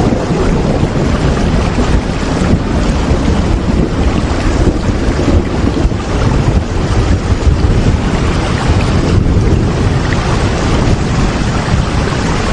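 Steady rain: an even, continuous hiss with a strong low rumble beneath it.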